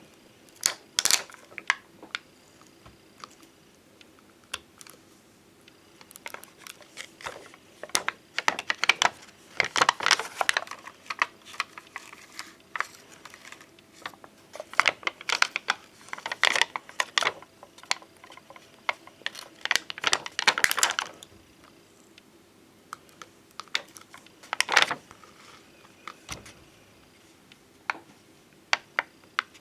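Tapping, clicking and scratching on glossy plastic bonbon drop and ohajiki stickers, in short bursts of quick clicks with quiet pauses between them.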